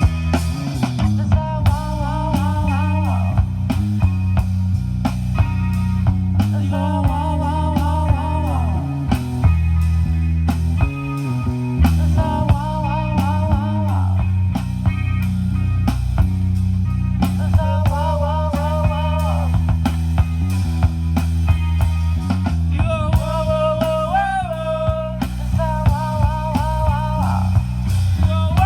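Rock band playing live, an instrumental passage: bass and drums under a lead melody played in repeated, sustained phrases with a wavering pitch.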